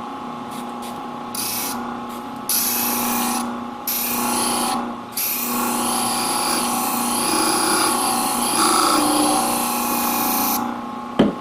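Katoku sharpening machine's diamond abrasive disc spinning with a steady hum while a ceramic shear blade is pressed against it with water, giving a grinding hiss. The hiss starts about a second in, breaks off briefly twice, and stops shortly before the end, as the blade is worked to cut a new single bevel edge.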